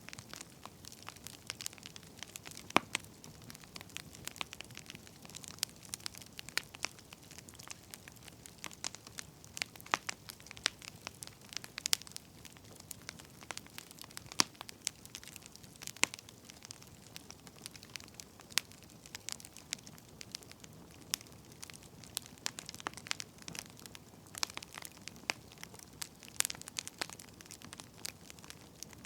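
Burning firewood crackling, with irregular sharp pops and snaps, some louder than others, over a faint steady hiss.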